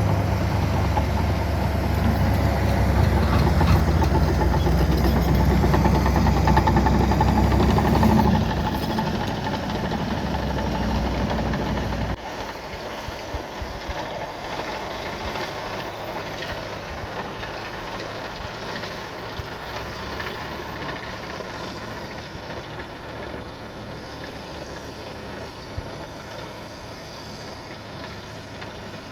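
Heavy diesel dump-truck engine running loud and close, easing off about eight seconds in, dropping again around twelve seconds, then fading steadily as it moves away.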